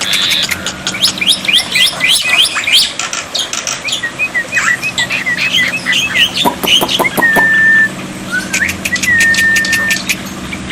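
Black-winged myna singing: a fast jumble of sharp chirps, clicks and short upward whistles, then long held level whistles in the second half.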